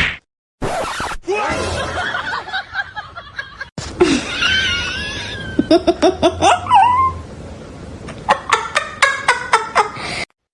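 A person laughing, with a run of quick, evenly spaced bursts of laughter near the end, amid other short clips with voices and cries.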